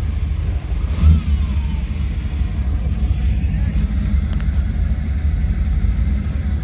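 Car engine idling with a steady deep rumble, giving one short louder burst about a second in.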